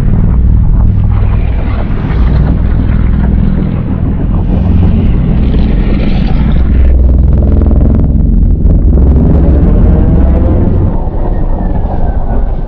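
Designed giant-monster sound effect: a loud, deep rumbling growl, with a wavering higher tone riding over it in the second half.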